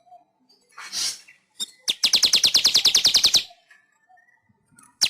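Manyar weaver bird singing: a short rasping note, then a fast dry chatter of roughly a dozen notes a second lasting about a second and a half, and a sharp single note near the end.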